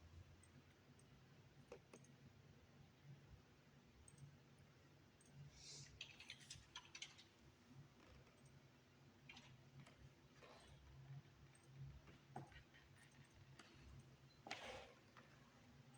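Near silence: room tone with a faint steady low hum and scattered faint clicks.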